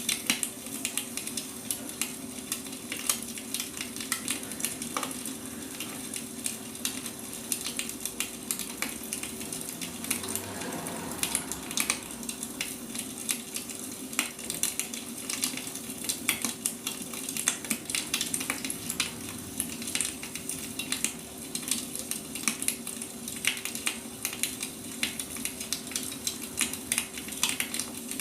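Wood fire crackling, with irregular snaps and pops of burning logs over a steady low hum.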